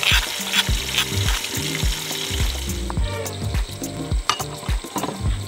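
Freshly pounded ingredients sizzling in a hot pot over background music with a steady beat. The sizzling stops about halfway through, leaving the music and a few light clinks.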